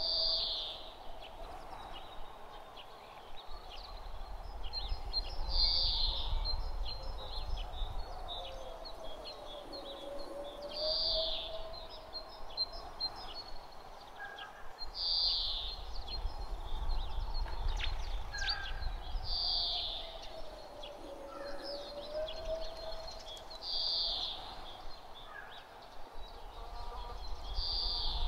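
Outdoor nature ambience: a bird gives a short, falling call about every four to five seconds over a low rumble of breeze. A faint tone slowly rises and falls underneath, with scattered soft crackles.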